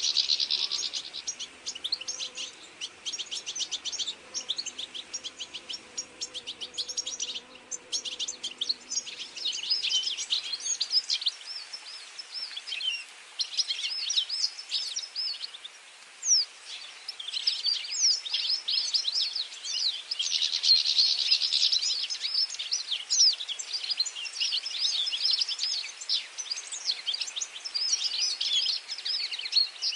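Several small birds chirping and singing at once, a dense chorus of quick high notes and short glides that thins around seven to nine seconds in and again around fifteen to sixteen seconds in.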